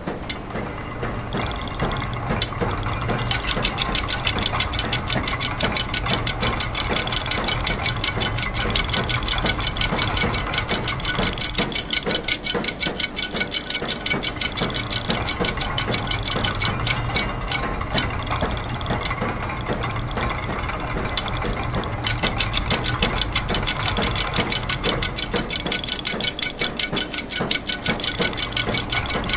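Layered loops of machine sounds (gears, ratchets, clockwork and a press) overlapping in a dense, continuous clatter of rapid mechanical clicks over a steady low hum, making a loose polyrhythm.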